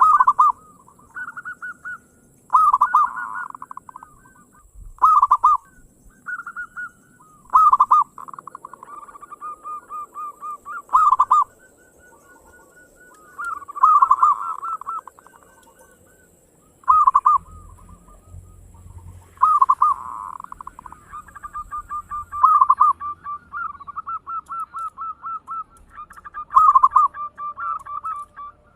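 Zebra doves (perkutut) cooing: loud bursts of fast staccato coo notes every two to three seconds, with softer rapid trills between them.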